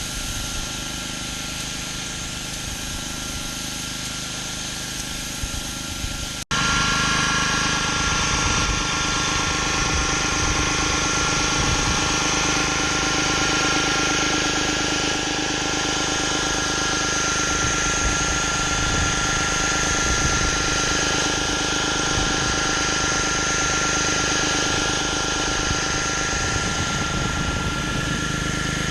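Gas-engine pressure washer running steadily while spraying concrete. About six and a half seconds in the sound cuts off abruptly and comes back louder, with a steady high whine over the engine.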